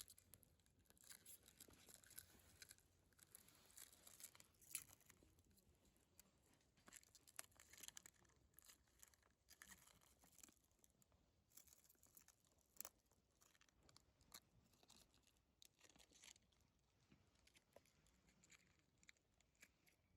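Faint, irregular crackling and snapping of a wood campfire, with many small sharp pops at uneven intervals.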